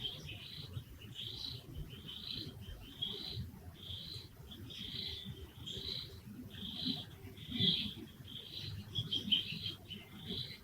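A series of short, high chirping calls, repeated at an even pace of about one and a half a second, over a low background rumble.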